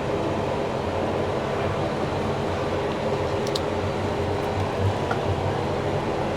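Cummins diesel engine of a self-propelled sprayer running steadily at full throttle, heard from inside the cab as an even drone.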